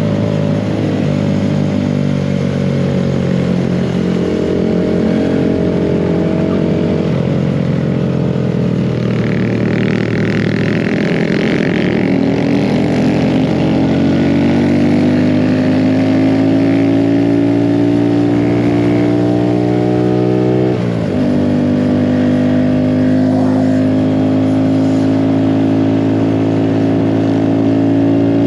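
Mini bike's small engine running under throttle while riding, its pitch rising and falling slowly with speed. The note drops briefly about 21 seconds in, then climbs again.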